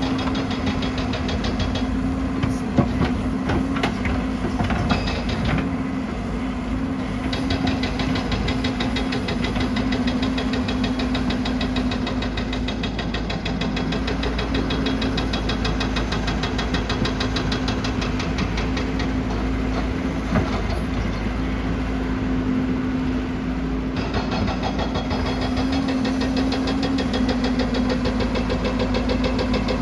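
Excavator's diesel engine running steadily with a constant whine, and a couple of sharp knocks from the machine's work.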